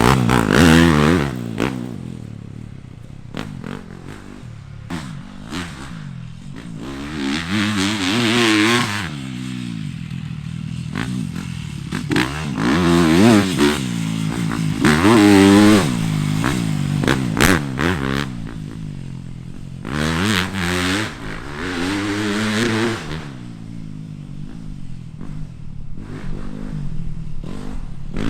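A 250cc four-stroke motocross race bike running laps on a tight corner track. The engine repeatedly revs up through each straight and drops off into the corners, in several loud surges with quieter stretches between. The rider says it is not running clean, cutting in and out when he is hard on the throttle at the top end.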